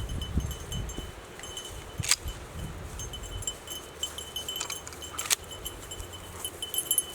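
Light, intermittent metallic tinkling of a small bell or chime. Wind buffets the microphone during the first second, and there are two sharp clicks, about two and five seconds in.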